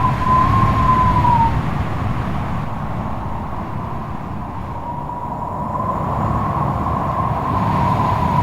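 Strong wind howling, with a whistling tone that wavers, slides down and fades out about a second and a half in, then comes back from about five seconds, over a low rumble of gusts.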